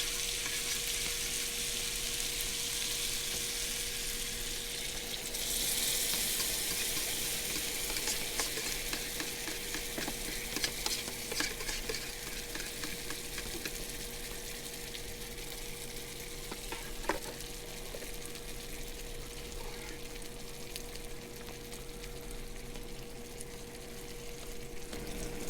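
Sausage, pineapple, onions and peppers sizzling in a frying pan just after a soy and pineapple-juice sauce has gone in, with a utensil clicking and scraping against the pan as it is stirred. The sizzle gets louder about five seconds in.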